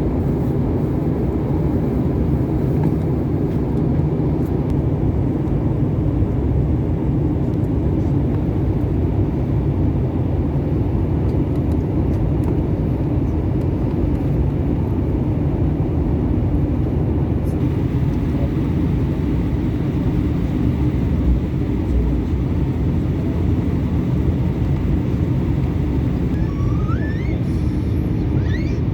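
Steady low rumble of an Airbus A321's jet engines and rushing air, heard inside the passenger cabin in flight.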